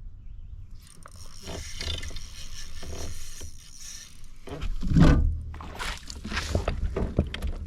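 Hissing splash-like noise of water, then a run of knocks and scrapes against a kayak's hull, with the loudest thump about five seconds in.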